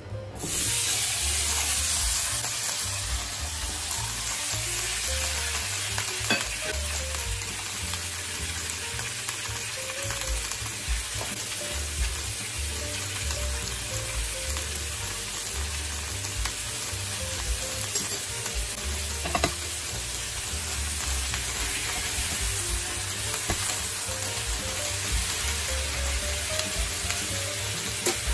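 Stir-fry of green bell pepper, onion and fried fish pieces sizzling in hot oil in a frying pan, the sizzle starting suddenly as the food goes in and loudest in the first few seconds. A spatula stirs through it, with a few short knocks against the pan.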